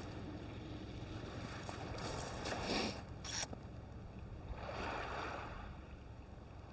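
Low wash of small waves on the beach, swelling and easing, with two brief rustles of handling near the microphone between two and three and a half seconds in.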